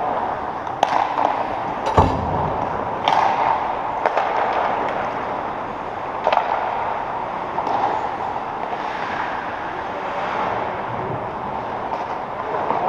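Game sounds in an arena: a steady rink hiss with a scatter of sharp knocks and clacks of sticks, ball or puck hitting. The loudest knock comes about two seconds in.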